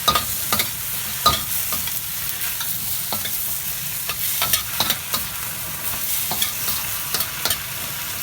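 Bok choy searing in a very hot wok: a steady sizzle with sharp scrapes and clicks of the utensil stirring and tossing it.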